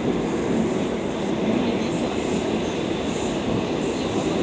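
Moscow Metro 81-760/761 "Oka" train running between stations, heard from inside the car: a steady rumble of wheels and running gear on the rails.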